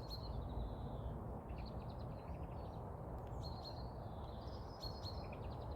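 A small songbird singing high, twittering phrases in several short bursts, over a steady low background rumble.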